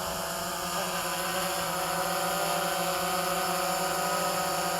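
DJI Phantom 3 Advanced quadcopter's propellers hovering, a steady multi-tone buzz whose pitch wavers slightly as the motors work against the wind.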